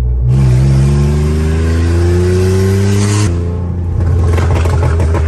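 BMW S54 straight-six in an E46 accelerating hard: the engine's pitch climbs steadily for about three seconds, then drops suddenly, and the engine runs on at lower revs.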